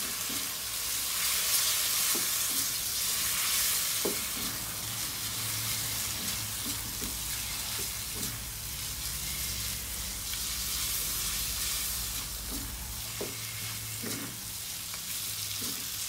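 Pork and roasted chili paste (nam prik pao) stir-frying in a hot pan: a steady sizzle, with the spatula knocking against the pan now and then.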